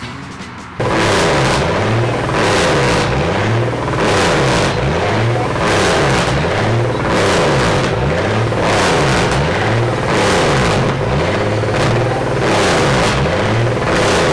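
Car engine held on full throttle, starting abruptly about a second in; its pitch dips and climbs again about every second and a half, over and over.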